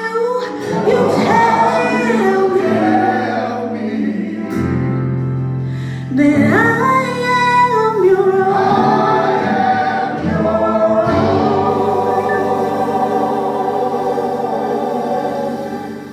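Church choir singing a gospel song, closing on a long held final chord that fades out near the end.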